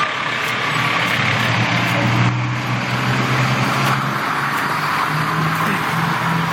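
Fire truck engine running with a steady low drone as the truck pulls out.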